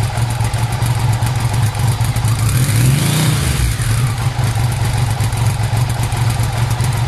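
1997 Triumph Sprint Sport's three-cylinder engine idling through an aftermarket exhaust, with one quick blip of the throttle about three seconds in that rises and falls back to idle.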